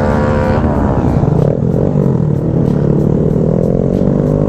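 Motorcycle engine running under way, its pitch held steady, then dropping about half a second in as the throttle comes off, then climbing slowly again as it pulls, with a low rumble of wind and road underneath.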